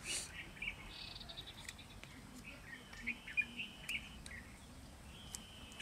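Birds chirping in the background: scattered short chirps and a few longer whistled notes, one about halfway through and another near the end.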